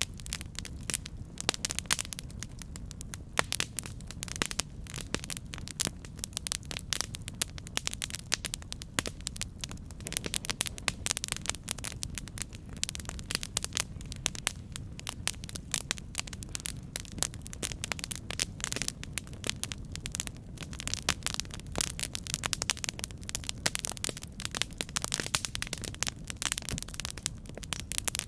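Campfire burning: wood crackling and popping in dense, irregular snaps over a steady low rumble of the flames.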